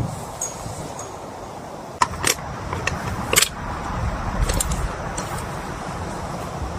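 Steady rain noise, with a handful of sharp clinks and knocks from gear being handled, starting about two seconds in; the loudest comes about halfway through.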